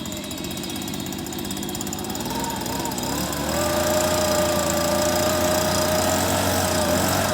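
An engine running, its pitch rising about two to three seconds in, then holding steady and louder.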